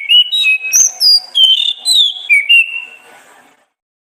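Orange-headed thrush singing a phrase of clear whistled notes that slide up and down, ending about three and a half seconds in.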